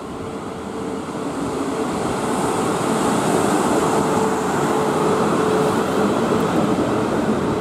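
South Western Railway Class 450 Desiro electric multiple unit running into the platform. Its wheels rumble on the rails, growing louder over the first few seconds as the train draws alongside and then holding steady, with a steady hum running through it.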